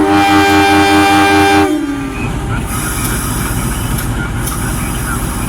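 Train horn sounding one loud blast of about a second and a half, its pitch sagging as it cuts off, followed by steady train noise.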